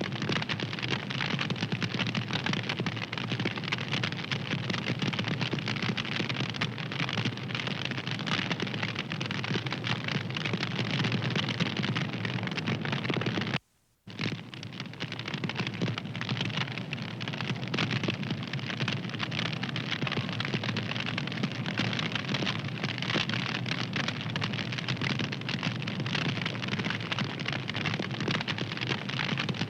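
Wood fire crackling and hissing steadily, dense with small pops. About fourteen seconds in, the sound cuts out for about half a second, then comes back.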